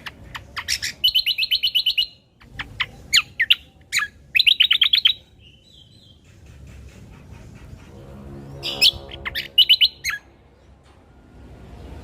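A cucak kombo songbird singing: sharp, high chirps and quick trilled runs of about ten notes each, repeated in bursts with short gaps. Around eight seconds in a lower, rougher call comes in beneath the song.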